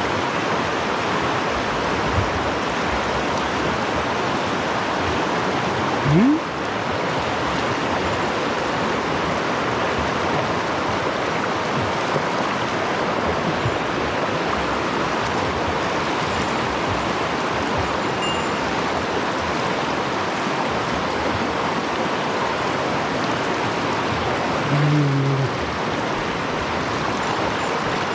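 Mountain stream running steadily, a continuous rush of water, the stream swollen after rain. A short rising sound about six seconds in and a brief low hum near the end sit over it.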